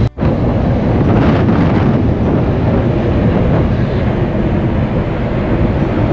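Loud, steady low rumble of a car ferry under way, with wind noise on the microphone.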